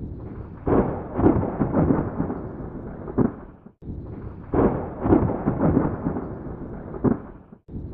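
Thunder rumbling with rain: a thunderstorm sound effect of a few seconds, heard twice over with a brief silent break between the repeats, each with several loud rolls.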